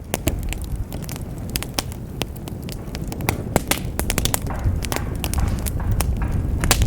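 Crackling: irregular sharp pops and snaps over a low rumble, growing slightly louder and then cutting off suddenly at the end.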